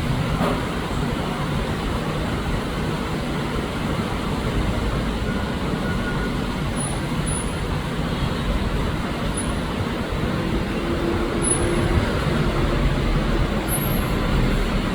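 A steady rumble of rail and road traffic around a Taipei Metro Wenhu line train running out of the station, with a brief falling tone about half a second in.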